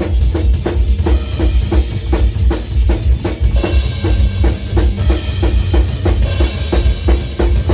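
Drum kit playing a fast, driving metal beat, with bass drum and snare strikes at an even pace. A cymbal wash comes in about halfway through.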